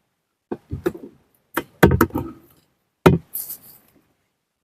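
A handful of sharp knocks and taps, about seven in the first three and a half seconds, with a brief rustle just after the last one.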